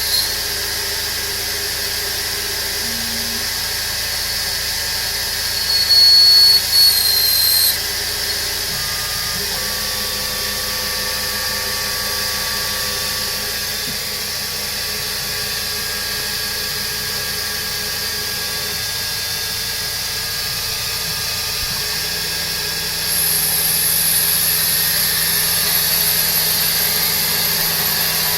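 Emco CNC milling machine running as a lathe: a steady machine hum with several held high whining tones from the spindle and the axis drives. There are short louder tonal bursts about six to seven seconds in, and the machine grows louder with a new high whine from about 23 seconds on.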